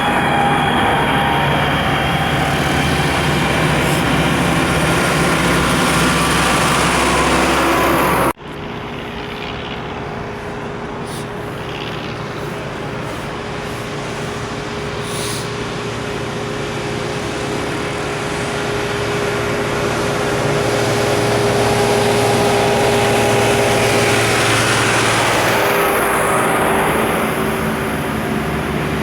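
Farm tractor engines running steadily as tractors drive past on a road. The sound breaks off abruptly about eight seconds in; then another tractor draws closer and grows louder, easing off slightly near the end.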